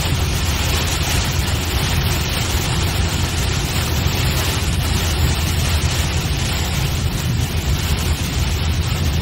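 Steady low rumble and hiss of a car driving, heard from inside the cabin.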